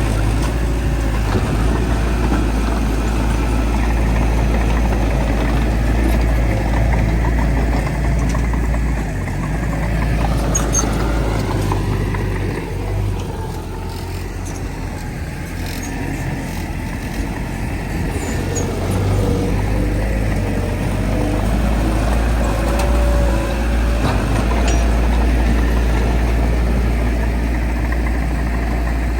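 Heavy diesel engines of earthmoving machinery (bulldozer and dump trucks) running with a steady low drone, easing off a little for a few seconds midway.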